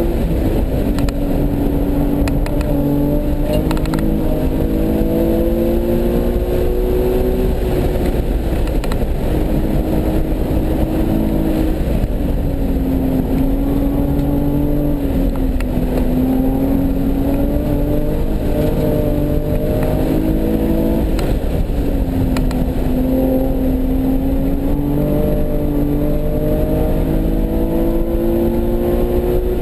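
Nissan 370Z's 3.7-litre V6 pulling hard at speed on a race track, its note climbing for several seconds at a time and falling back about four times as the car shifts gears or lifts for corners.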